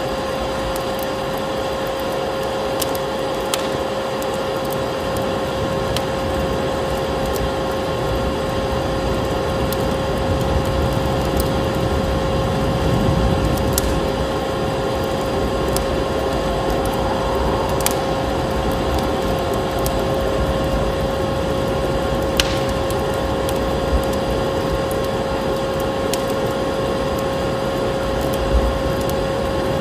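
Wood fire crackling with sharp pops every few seconds, layered over the steady drone and constant whine of a vacuum cleaner motor and the even rushing of snowstorm wind.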